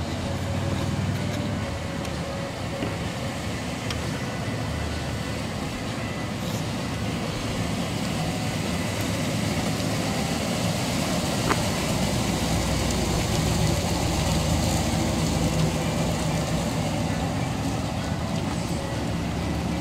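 A 1957 Pontiac Star Chief's V8 engine running at low speed as the car drives slowly by. It is a steady low engine note with road noise, slightly louder midway as the car passes and easing off as it pulls away.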